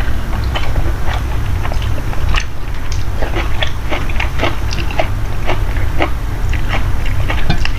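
A person eating close to the microphone: chewing with many short, irregular mouth clicks, several a second, over a steady low hum.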